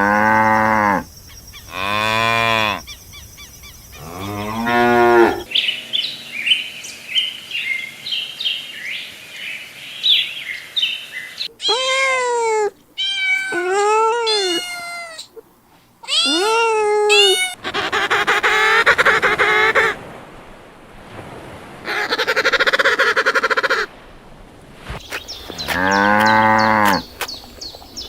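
A series of farm animal calls: three short moos from cattle, then a stretch of high chirping, then a run of higher honking calls like geese, then rougher calls, and another moo near the end.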